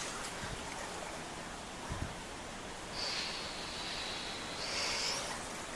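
Steady hiss of rain and floodwater, with a brighter hiss rising about three seconds in and fading about two seconds later.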